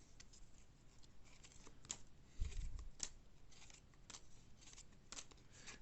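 Baseball cards being handled and flipped through: scattered light scrapes and clicks of card stock, with a dull thump about two and a half seconds in.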